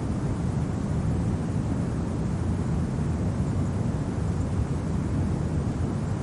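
Steady, low rumble of winter wind, an even noise that holds level without breaks.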